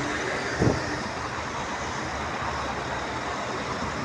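Steady city street traffic noise, vehicles passing, with one brief louder sound under a second in.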